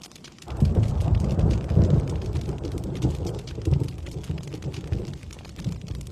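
A rolling clap of thunder, a low rumble that sets in about half a second in, swells several times and dies away over about five seconds, over a steady patter of rain.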